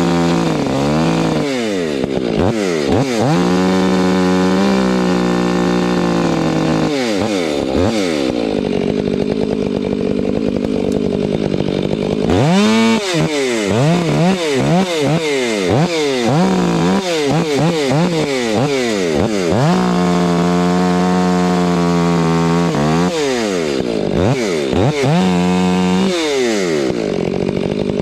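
Chainsaw running throughout, revved up and down over and over. It is held at high revs for a couple of seconds at a time, with a lower, rougher stretch in the middle, as when it bogs down in a cut in silver maple wood.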